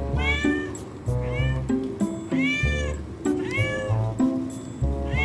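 A cat meowing again and again, about five high meows that rise and fall in pitch, each under a second long, over background music.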